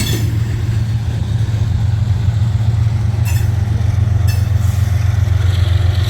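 A freight train being shoved slowly past, with the steady low drone of the diesel-electric locomotive working behind the cars. Two brief metallic rings from the wheels or couplers come about three and four seconds in.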